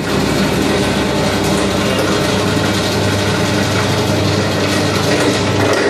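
Cloth grinder machine running: a loud, steady mechanical noise over a low hum.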